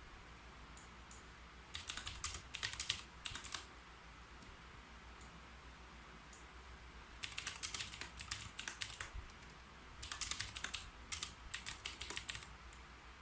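Typing on a keyboard: three quick runs of keystrokes, each lasting one to two and a half seconds, separated by short pauses with only a stray click or two.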